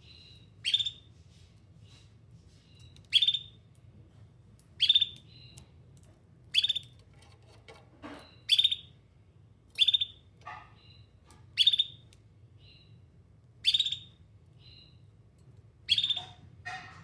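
Domestic canary giving single loud chirping calls, one every second and a half to two seconds, each a short note dropping in pitch with a softer note after it. These are calls for other canaries. A low steady hum runs underneath.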